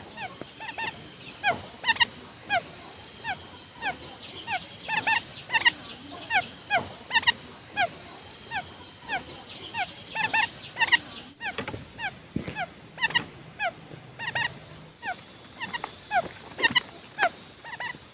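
Quail calling as a decoy lure: short, downward-sliding notes repeated in quick series, over a faint steady high tone. The calls break off briefly about 11 seconds in.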